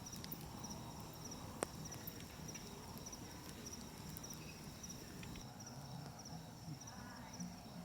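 Night insects chirping in a faint, steady, pulsing high trill, with a campfire crackling softly and one sharp pop about a second and a half in.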